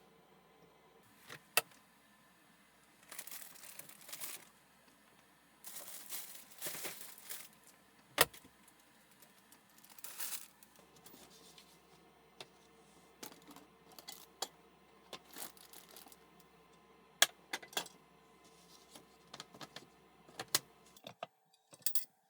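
Objects being handled at close range: scattered sharp clicks and knocks, and a few short stretches of rustling like packaging or fabric being crumpled, over a faint steady hum.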